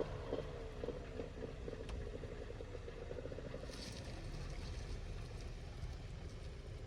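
1997 Honda CR250's single-cylinder two-stroke engine running faintly as the bike is ridden, its pitch rising and falling with the throttle.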